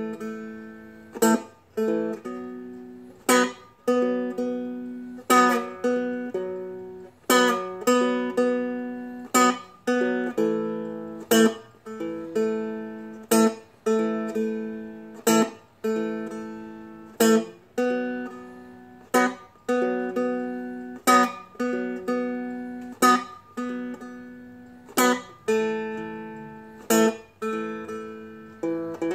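Seagull Merlin, a small mountain-dulcimer-style acoustic instrument, strummed as a chord accompaniment without the melody, in a slow rocking rhythm: a strong accented strum about every two seconds with lighter strums between.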